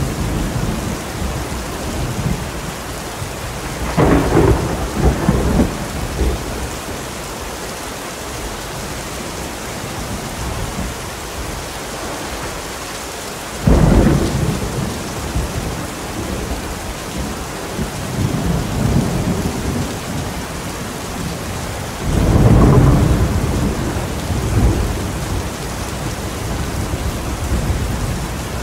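Steady heavy rain with rolling thunder. One thunder rumble comes about four seconds in, a sudden loud clap about halfway through, and a long rolling rumble about three-quarters of the way through.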